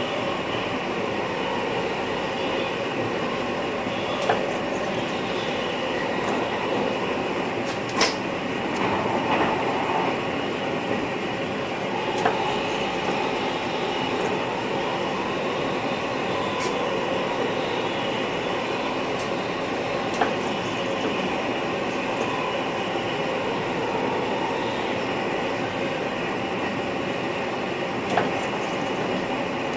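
Cab interior of a VIRM double-deck electric multiple unit running along the track: a steady running noise, broken by a few short, sharp clicks from the wheels on the rails, the loudest about eight seconds in.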